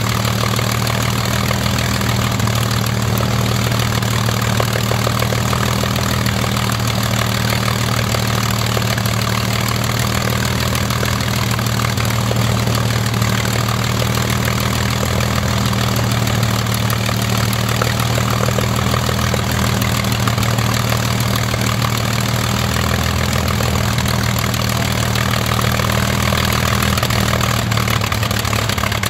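Rolls-Royce Merlin Mk500 V12 aero engine running steadily with its propeller held at fine pitch, a constant low engine note with no change in speed.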